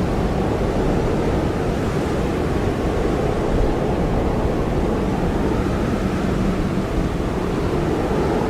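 Blizzard wind blowing hard and steadily: a dense low rush with a faint wavering howl.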